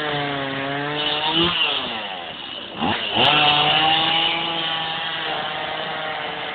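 A small engine revving up and down, its pitch dipping, falling and rising again.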